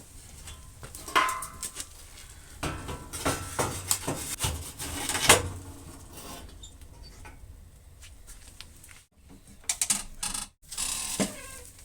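Irregular metallic clanks, clinks and rattles of metal parts or tools being handled, with a few louder knocks among lighter clicking.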